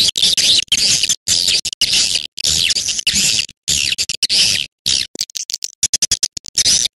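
Swiftlet lure-call recording: dense, rapid twittering chirps of swiftlets in short runs that start and stop abruptly with brief gaps between them.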